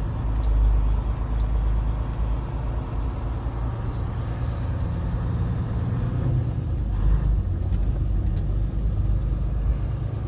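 Semi truck on the move: a steady low rumble of engine and road noise.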